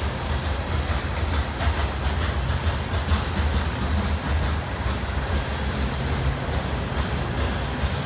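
Loaded coal train rolling past: a steady low rumble of the cars, with wheel clicks over the rail joints.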